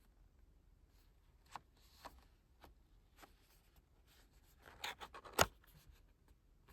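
Hands handling a K-pop album package: faint rustling of paper and plastic with light clicks, a short scraping flurry near the end and one sharp click about five and a half seconds in.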